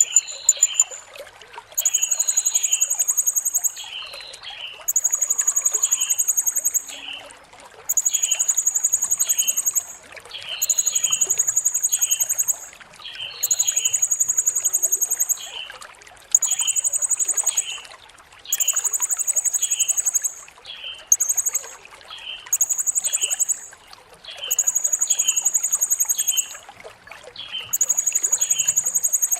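Blue-crowned hanging parrot (serindit) calling: a shrill, very high trilled note about a second long, repeated roughly every two seconds, with short lower chirps between the notes. A faint trickle of water runs underneath.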